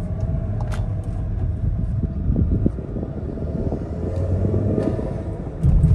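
Turbocharged 1.8 TSI four-cylinder of a VW Golf Alltrack fitted with an APR aftermarket intake, accelerating through the low gears as heard inside the cabin: a steady low engine rumble. Near the end the sound jumps up as the car is shifted from second into third.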